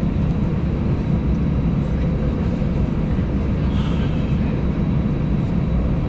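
Steady low rumble inside an Airbus A320 cabin while it waits on the ground with its engines idling, cabin ventilation mixed in.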